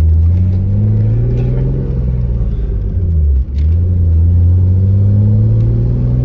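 S50 straight-six engine of a BMW E34 wagon accelerating hard, heard from inside the cabin, rising in pitch through one gear. There is a brief break about three and a half seconds in as the driver upshifts the manual gearbox, then it pulls and rises again in the next gear.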